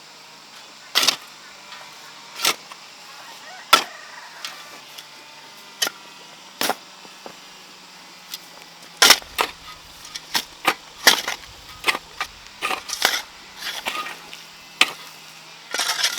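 Repeated sharp strikes of a hand tool in farm work, irregular: spaced about a second or more apart at first, then quicker and bunched from about halfway through. A faint steady low hum sits underneath.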